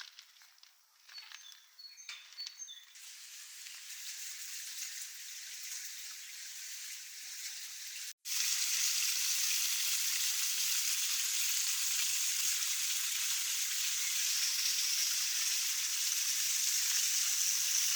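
A few short bird chirps, then a steady high hiss that builds from about three seconds in, cuts out for an instant about eight seconds in, and returns louder.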